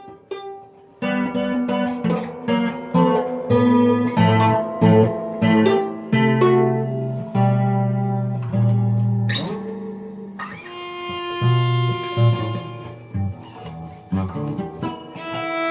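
Acoustic guitar and violin improvising freely: a dense run of plucked guitar notes begins about a second in, and longer held notes come in during the second half.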